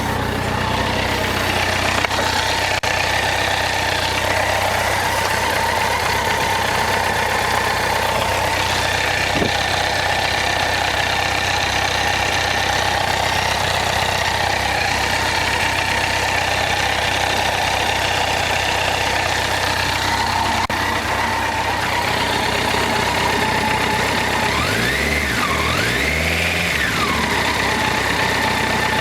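Honda CBR1100XX Blackbird's inline-four engine idling steadily with a new cam chain tensioner fitted. Its pitch rises and falls twice near the end, as when the throttle is blipped.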